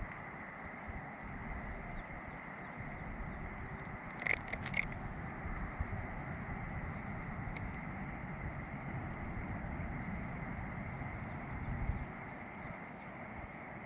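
Outdoor ambience on a walk: footsteps on a trail under a steady high-pitched drone, with a brief cluster of chirps about four seconds in.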